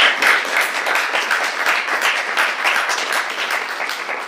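Audience applauding: many hands clapping steadily, then thinning out near the end.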